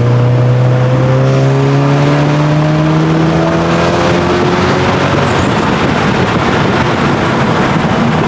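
Audi S3's engine under hard acceleration, heard from inside the car: its note climbs steadily for about four seconds, then merges into a loud, steady rush of road and wind noise at speed.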